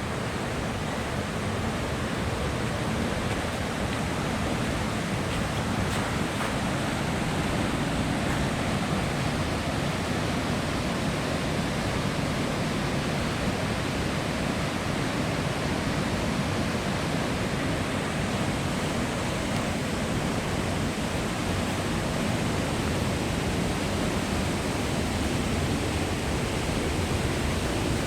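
Steady, unbroken rush of fast-flowing water from the Kozjak stream and its falls, a dense even hiss with a low rumble underneath.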